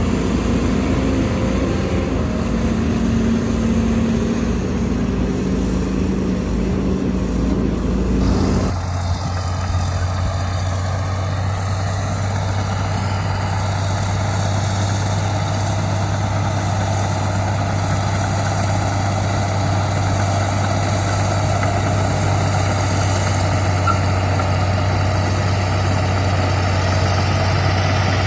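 Heavy diesel engines of earthmoving machinery running steadily. About nine seconds in the sound changes abruptly to a steadier, lower hum.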